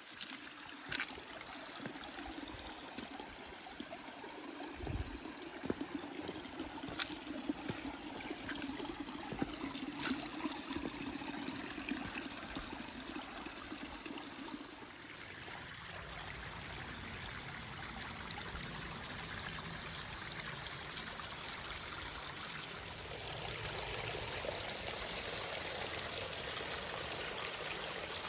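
Stream water trickling and running steadily, with a few sharp clicks in the first half.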